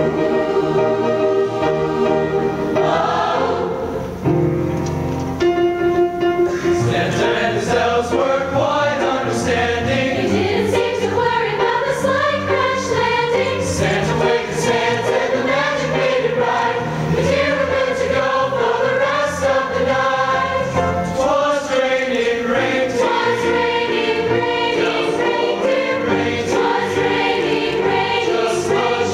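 High school choir singing, many voices together in harmony.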